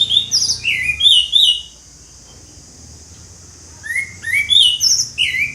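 Orange-headed thrush singing loudly at full voice: two phrases of quick whistled notes and slurs, one at the start and one about four seconds in, with a short pause between.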